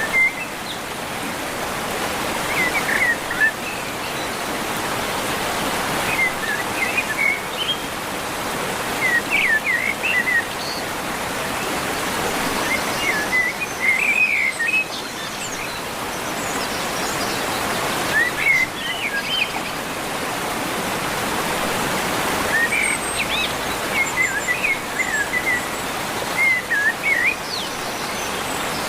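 Bird chirps in short clusters every few seconds, over a steady background hiss.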